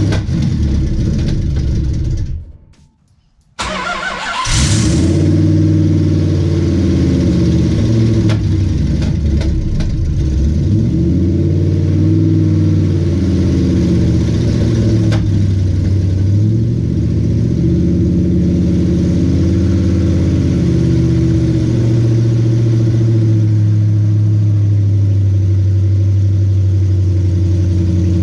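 Freshly built Mopar 408 stroker V8 running loudly, then dropping out for about a second before it fires again with a burst and keeps running. Its engine speed rises and falls for a while, then holds steadier near the end, with the ignition timing still being set.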